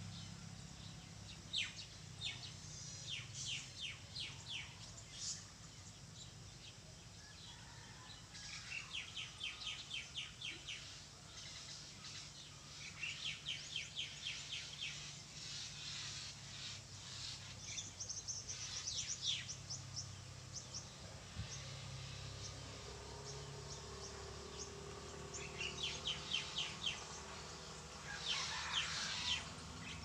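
Songbirds singing: several quick, high trills of rapidly repeated notes, each lasting a second or two, come every few seconds over a steady low hum.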